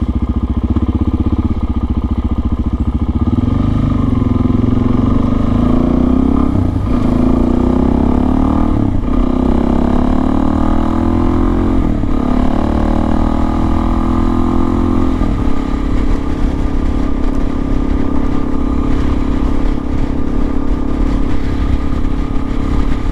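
Suzuki DRZ400S single-cylinder four-stroke engine with an FMF PowerCore slip-on exhaust, pulling up through the gears. The pitch climbs and drops back at three upshifts a few seconds apart, then holds steady at a cruise.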